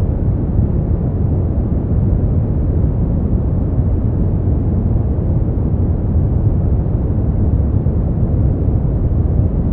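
Brown noise: a steady, deep rumbling hiss, strongest in the bass and fading out toward the treble, with no changes.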